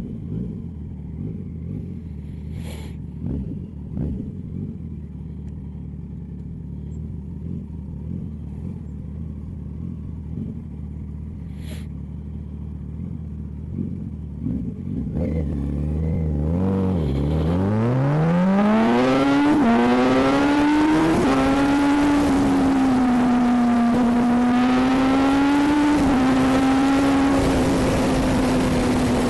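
Motorcycle with an aftermarket sport exhaust running low and steady, then from about halfway through accelerating hard, its engine note rising steeply. It then holds a steady high pitch at speed under a rush of wind noise.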